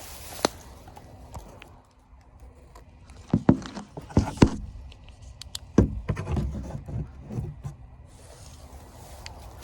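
Footsteps: a run of irregular heavy steps and thuds, loudest in the middle.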